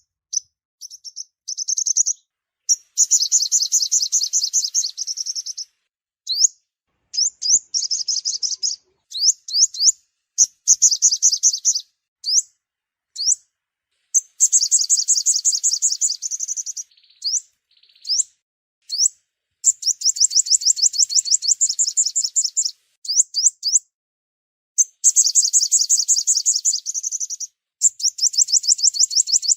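Sunbird song (the 'five-colour sunbird' sought by Vietnamese bird trappers), played as a lure call: bursts of rapid, high, thin chirping trills, each one to three seconds long, broken by short pauses and single sharp upswept notes.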